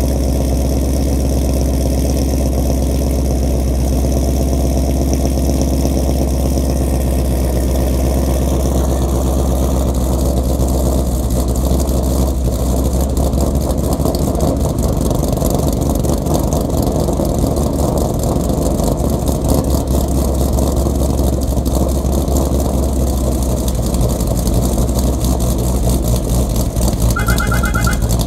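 2015 Mustang GT's 5.0 V8 idling with a choppy, lopey beat from a cam tune, through a Corsa Sport catback exhaust with the catalytic converters deleted. The exhaust note is loud and deep and stays steady, with no revving.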